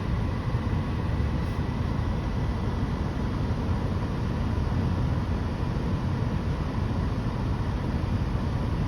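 Steady low vehicle rumble heard from inside a car's cabin, with a faint steady high tone over it.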